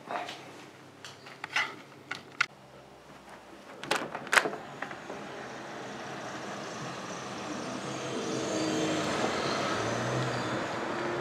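A few sharp clicks and knocks, then steady vehicle noise with a low hum that swells over several seconds and holds.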